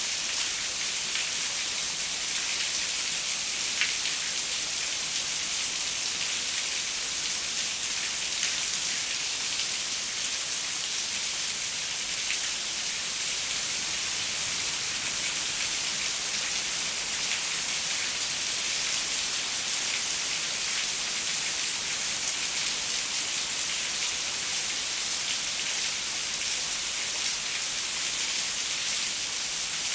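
Steady rain falling on a window, an even hiss with scattered drop ticks.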